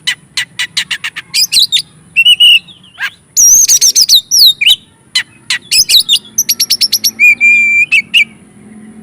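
Oriental magpie-robin singing in full, vigorous song: a quick run of sharp chirps, then loud phrases of downward-sliding whistles and trills, with one held whistle near the end.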